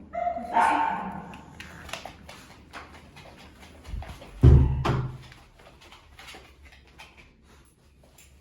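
A dog gives a short, high whine at the start, followed by scattered light taps and clicks. A heavy, low thump about four and a half seconds in is the loudest sound.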